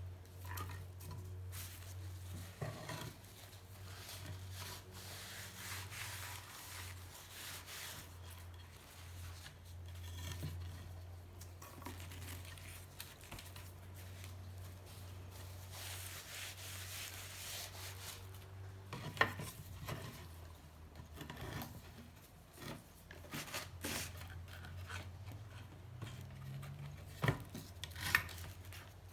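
Hand work on a seized motorcycle engine's bare crankcase: metal scraping and rubbing with scattered clinks, a few sharp metal knocks near the end, over a steady low hum.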